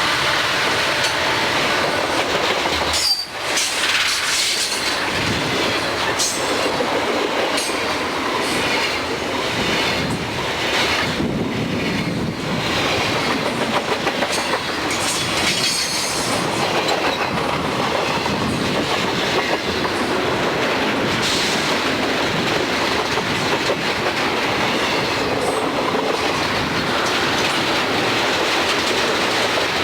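Freight train cars rolling past close by, a steady heavy rumble with the clatter of wheels over the rail joints.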